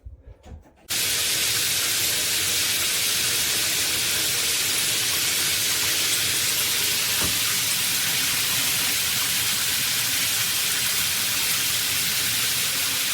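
Shower head spraying water, a steady hiss that starts suddenly about a second in and runs on evenly.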